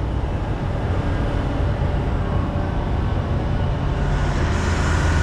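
Diesel engine of a Grove GMK 6450 all-terrain crane running steadily under load while the crane lowers a load. It is a low, even hum that gets a little louder about four and a half seconds in.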